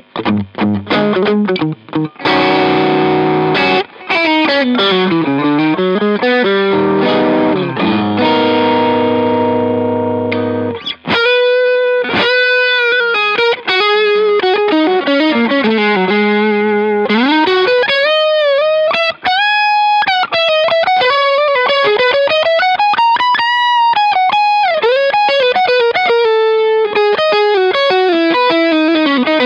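Electric guitar, a Fender Custom Shop Telecaster, played with distortion. It starts with chordal riffing, then switches about eleven seconds in to a single-note lead line with string bends and vibrato.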